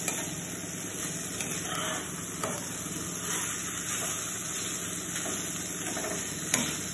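Momo stuffing of paneer and vegetables sizzling in a nonstick pan while a metal spoon stirs it, with a few light scrapes of the spoon against the pan and a sharper one near the end.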